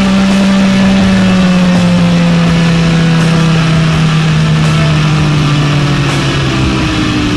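Kawasaki ZX-9R inline-four engine heard from the rider's seat, its revs falling slowly and steadily as the bike slows, with wind rushing past.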